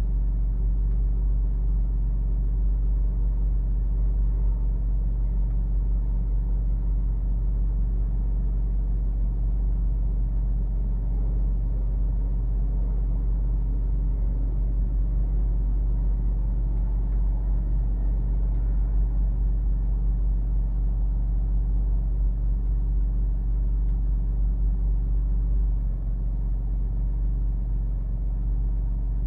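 Porsche Boxster's flat-six engine idling steadily after a cold start, with a deep, even rumble. Near the end the sound steps down slightly.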